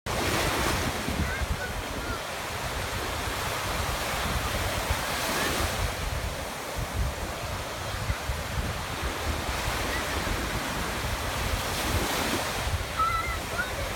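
Stormy sea surf: waves breaking and washing, with louder surges every few seconds, and wind buffeting the microphone.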